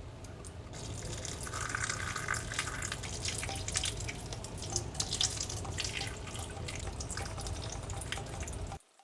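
Running water splashing, as from a tap into a sink, with scattered small clicks; it swells about a second in and cuts off suddenly just before the end.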